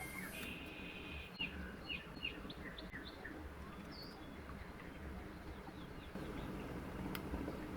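Small birds chirping in short, scattered calls over a low, steady background hum, with a faint click or two.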